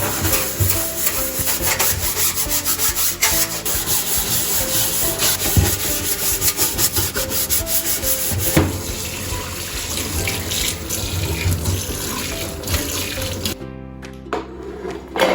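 Brisk scrubbing against a hard surface, in a rough, irregular stream of strokes that stops shortly before the end, with soft background music underneath.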